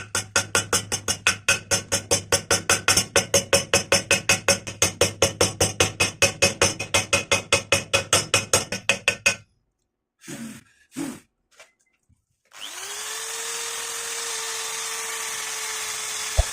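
A power tool running with a rapid rhythmic pulsing, about five beats a second, for roughly nine seconds, then stopping. Near the end, a motor runs up to a steady whine.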